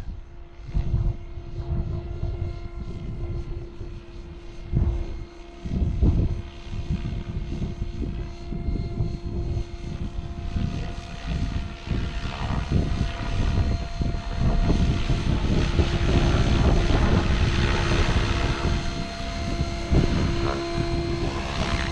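Align TB60 electric RC helicopter flying in to land, its rotor and motor making a steady whine. Strong wind gusts buffet the microphone with a rumble, and the helicopter gets louder in the last several seconds as it comes closer.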